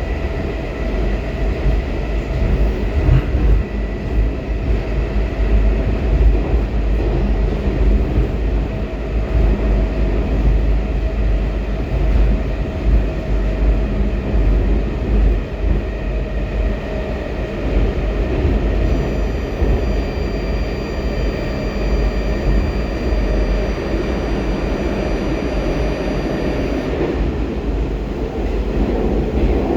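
Baltiets metro train running at speed between stations, a continuous heavy rumble of wheels on rail with a steady whine from the traction drive. Faint high-pitched steady tones join in from about two-thirds of the way through and stop shortly before the end.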